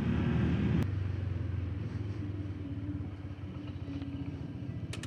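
Small motorcycle engine running steadily as the rider sets off, with one sharp click about a second in; the engine hum slowly fades.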